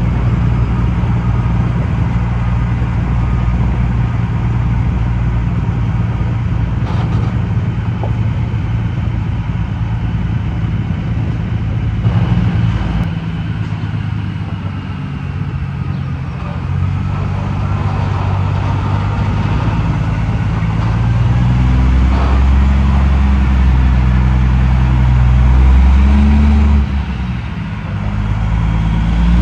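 Detroit Series 60 diesel of a Peterbilt 389 glider running under load, its engine note climbing and falling through the gears with a brief drop near the end as it shifts. A faint turbo whistle rises and falls over it in the middle.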